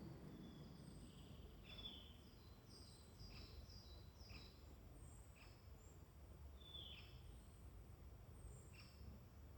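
Faint woodland birdsong from several small songbirds: short high chirps and thin, high whistles sliding downward, repeating every second or so over a low background rumble.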